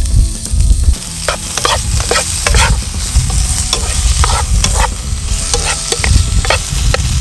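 Sliced pork sizzling in a frying pan, with a utensil scraping and tapping against the pan as it is stirred. A loud low rumble runs under the first second and then stops.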